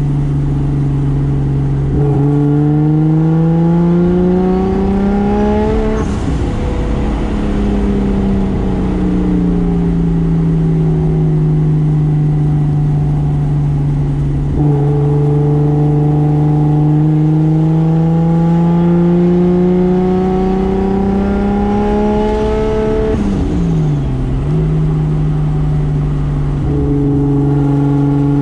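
Single-turbo 2JZ straight-six engine of a 1995 Toyota Soarer pulling through the rev range. Its pitch climbs for a few seconds, sinks slowly as it eases off, then climbs again. Near the end the revs drop sharply and the engine settles at a steady pitch.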